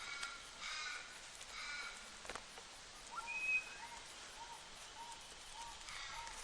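Small birds calling: a few short chirps, one thin high whistle near the middle, and a run of soft repeated piping notes, about two a second, through the second half.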